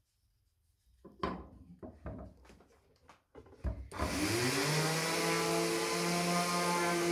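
A few wooden knocks and rubs as a workpiece is handled. About four seconds in, an electric power tool is switched on, spins up with a rising whine and settles into a steady run.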